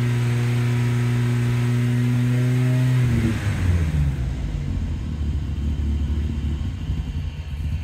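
Mazda MX-5's newly fitted four-cylinder race engine held at steady raised revs, then dropping back about three seconds in to a lower, uneven idle. The engine stops at the very end.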